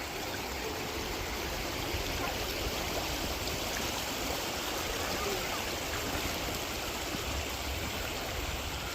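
Steady rush of a stream's flowing water, even and unbroken.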